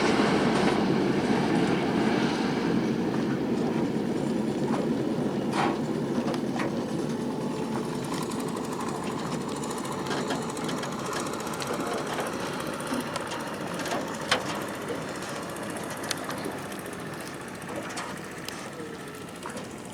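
Passenger train running on, its rumble slowly fading as it draws away, with scattered sharp clicks from the wheels and rails.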